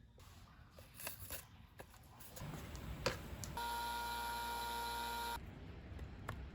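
A few sharp clicks and handling knocks, then a steady electric buzz for about two seconds that starts and stops abruptly.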